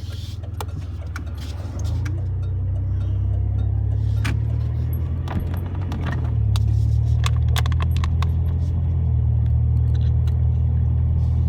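Truck driving on the road, heard from inside the cab: a steady low engine and road rumble that grows louder about two seconds in and again around six and a half seconds, with light clinks and rattles scattered throughout.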